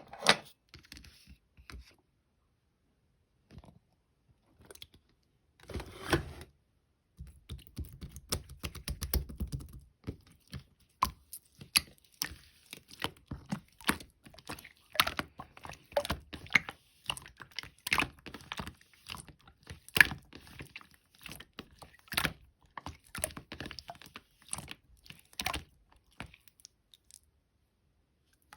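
Clear slime being squished and pressed by hand, making irregular clicks and pops that come thick and fast from about a quarter of the way in.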